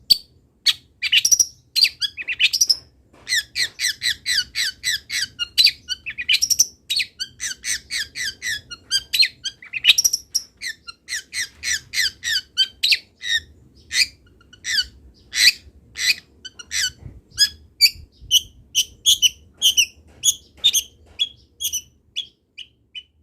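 Long-tailed shrike (cendet) singing without pause: a fast, varied run of short notes for the first half, settling after about 17 seconds into evenly spaced repeated notes.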